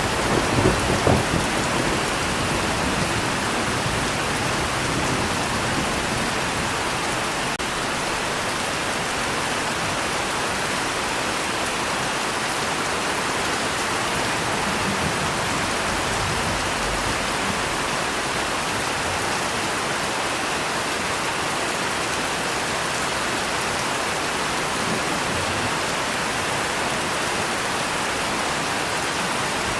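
Steady rain, a dense even hiss of drops, with a rumble of thunder fading away in the first second or two.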